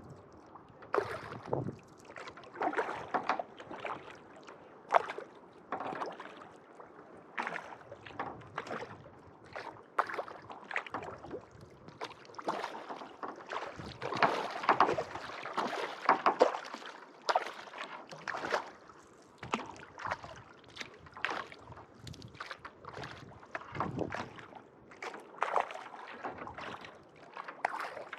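Kayak paddle blades dipping and pulling through calm lake water, a splash and drip with each stroke, about one stroke a second, alternating sides in a steady rhythm.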